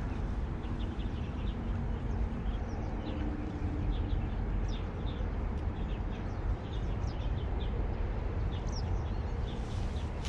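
Small birds chirping repeatedly from the riverside vegetation over a steady low rumble.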